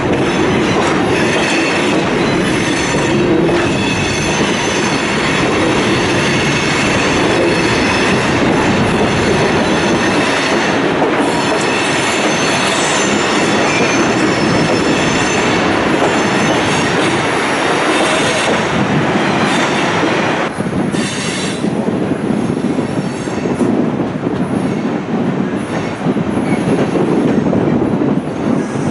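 Tourist passenger train running on the rails, heard from on board: a steady rumble of wheels and cars with high thin wheel squeal. About two-thirds of the way through the high squealing drops away and the rumble grows more uneven.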